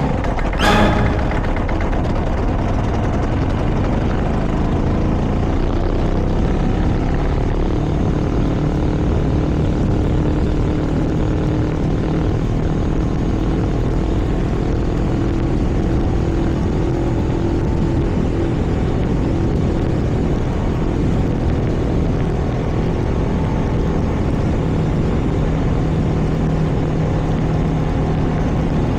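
Vehicle engine droning steadily at cruising speed, with wind and road noise rushing past. A short sharp knock comes just under a second in.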